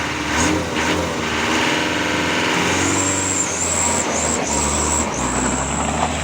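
A motor vehicle's engine revs up and eases off, with a high steady whine above it from about halfway in.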